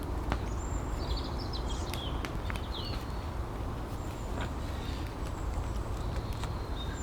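Small birds chirping in short high calls over a steady low rumble, with a few light clicks or knocks.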